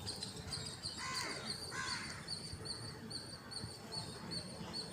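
Two harsh bird calls about a second apart, over a high chirping that repeats steadily about twice a second.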